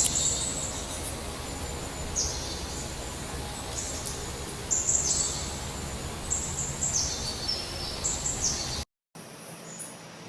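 Small birds chirping: short, high calls that drop in pitch, repeating every second or two over a steady low rumble of background noise. The sound cuts out about nine seconds in, leaving a quieter hum.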